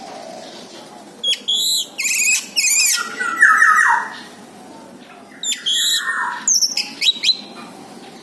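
Orange-headed thrush singing: two phrases of quick, high, sweeping whistled notes, each ending in a lower falling note. The first comes about a second in and the second about halfway through.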